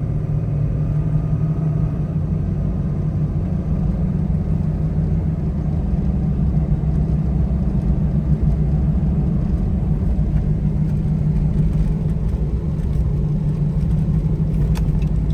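2012 Ram 2500's 6.7-litre Cummins inline-six turbodiesel and road noise while the truck is driven, heard from inside the cab as a steady low drone.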